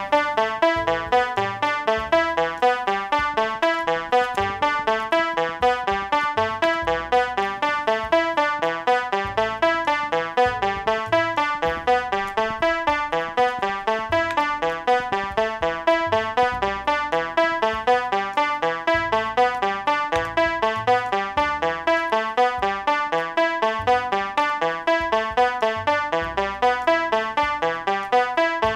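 Electronic synthesizer music coded in Sonic Pi: a steady stream of quick, repeating short notes over a pulsing bass line.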